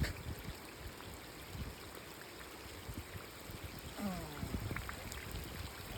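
Faint steady rushing noise of the lakeside surroundings, with scattered low bumps and a brief faint voice about four seconds in.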